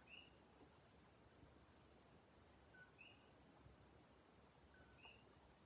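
Crickets trilling in a steady, high, faint drone, with a short faint chirp from another caller about every two to three seconds.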